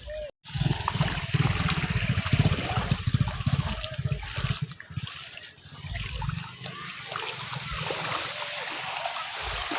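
Floodwater flowing and trickling, a steady rushing hiss, with heavy low rumbling over roughly the first half.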